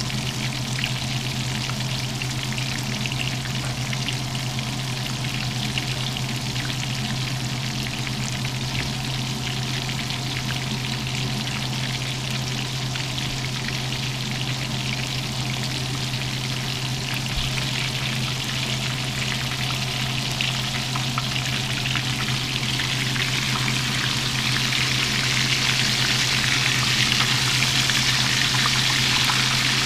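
Battered catfish pieces frying in deep hot oil in a cast-iron skillet: a steady crackling sizzle over a steady low hum, the sizzle growing louder about three quarters of the way through.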